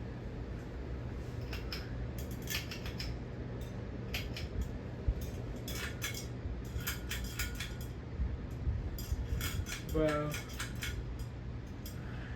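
Hunter 42-inch low-profile ceiling fan running with a steady low hum, with irregular light clinks and clicks over it.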